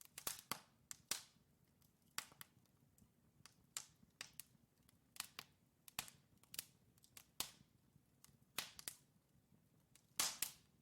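Wood fire crackling: burning logs giving irregular sharp pops and snaps over a faint low hiss, with a burst of louder pops near the end.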